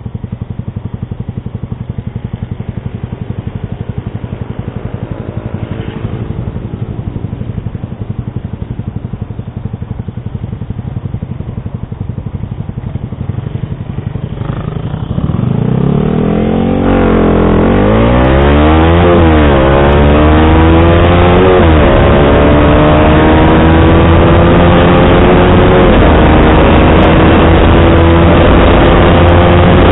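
Yamaha R15 V3's single-cylinder engine through an SC Project exhaust with a dB killer, running steadily at low revs. About fifteen seconds in it gets much louder as the bike accelerates, revs rising and dropping back twice at upshifts, then climbing slowly at a steady pull.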